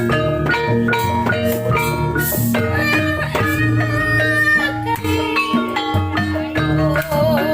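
Javanese kuda lumping dance music: struck pitched percussion plays a fast, repeating pattern over drums. A wavering held note enters near the end.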